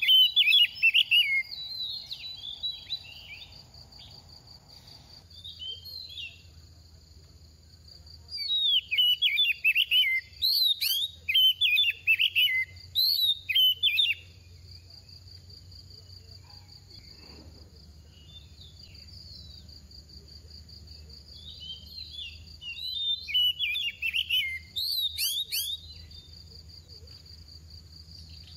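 Oriental magpie-robin singing in three bouts of rapid, varied whistled phrases, the loudest from about 8 to 14 seconds in, over a steady high-pitched buzz.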